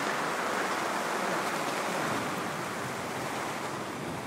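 Thunderstorm wind and rain, a steady rushing noise with no single strike or gust standing out.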